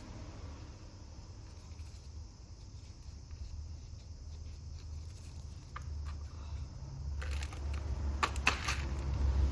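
Low rumble with a few faint clicks, then from about seven seconds in a quick run of crisp scraping and crunching as dry potting mix and succulent plants are handled during repotting.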